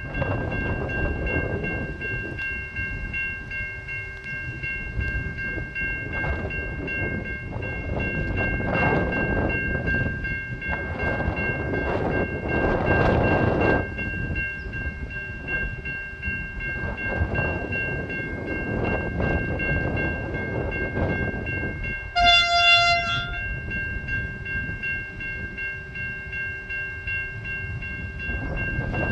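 V/Line Vlocity diesel railcar train rumbling along the broad-gauge track, its noise swelling and fading, loudest about halfway through. It sounds one short horn blast, about a second long, near the 22-second mark, over steady high ringing tones.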